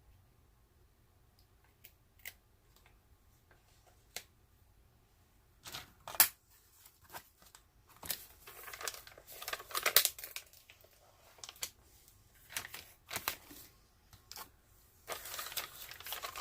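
Plastic film and canvas of a diamond-painting kit rustling and crinkling as it is unrolled and handled. A few faint taps come first, then irregular crinkling starts about six seconds in, loudest around ten seconds.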